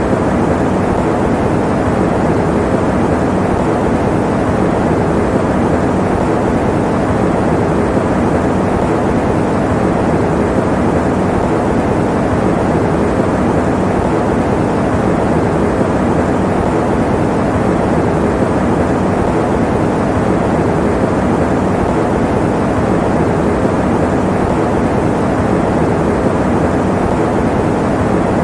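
Electric fan running steadily: an even, unchanging rush of air, strongest in the low and middle pitches.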